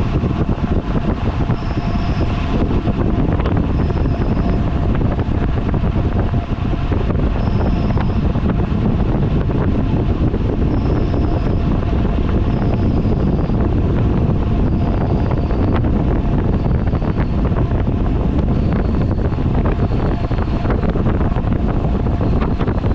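Wind noise buffeting the camera microphone of a road cyclist riding at speed: a loud, steady rush.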